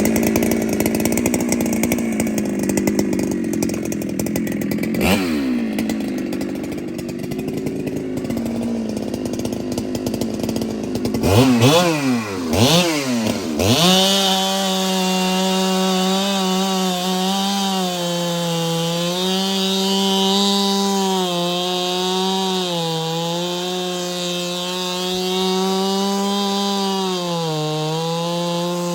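Ported Husqvarna 395 two-stroke chainsaw running hard at high revs. About 11 seconds in it is blipped up and down a few times, then it holds a steady high pitch that dips slightly now and then.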